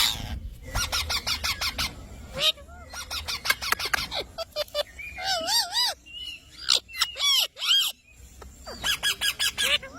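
Pet parrots chattering, with runs of rapid, sharp chirps and a few warbling whistled notes about halfway through.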